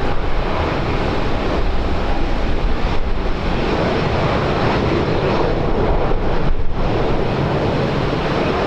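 Loud, steady aircraft engine noise mixed with wind buffeting the microphone.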